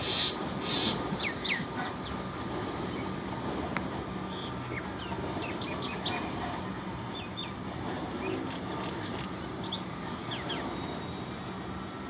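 Electric suburban train running on the tracks, a steady low rumble, with birds chirping over it in short calls.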